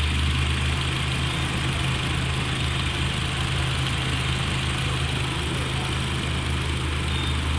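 Toyota RAV4 engine idling steadily, a deep even hum with a hiss above it. The engine is one suspected of misfiring.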